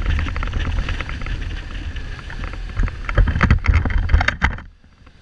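Wind buffeting the microphone with a low rumble from riding a Kawasaki Z1300 motorcycle, broken by a run of rattling clicks in the second half. The noise falls away sharply about four and a half seconds in.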